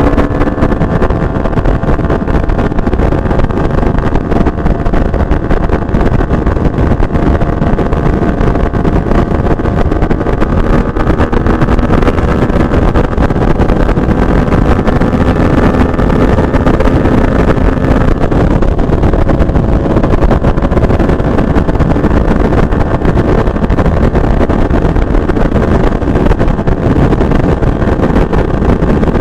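Benelli TNT 600i inline-four with a Two Brothers canister exhaust, running under steady riding at speed, its note rising slowly in pitch over the first two-thirds. Wind rushes over the microphone throughout.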